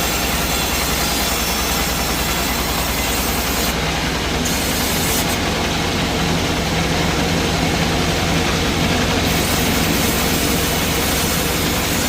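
Sawmill machinery running steadily: a low engine hum under a dense, even wash of mechanical noise.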